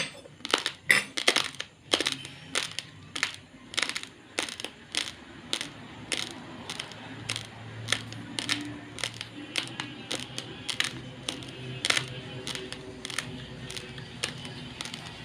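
Dry, uncooked basmati rice crunched between the teeth: a quick series of sharp, crunchy cracks, about two or three a second, loudest in the first couple of seconds.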